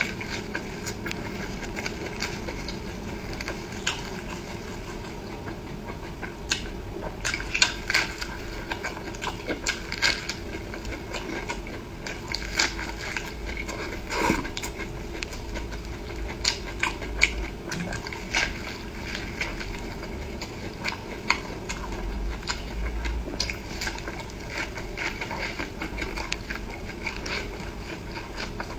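Close-miked eating sounds: a person chewing food, with irregular wet clicks and smacks of the mouth, some in quick clusters.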